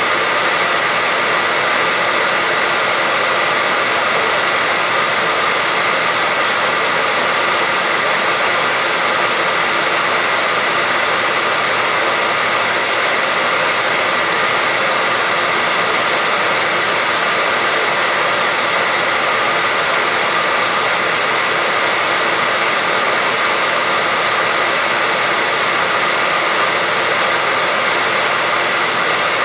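Hair dryer running steadily: a loud, even whoosh of blown air with a faint fan whine, never changing.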